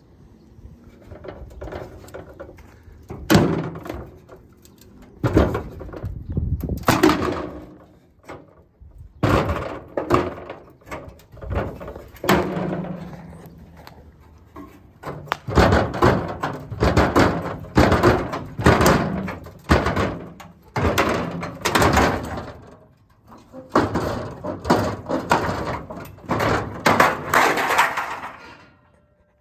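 Repeated heavy bangs and knocks in irregular bunches, several a second at their busiest, with a few short quiet pauses between the bunches.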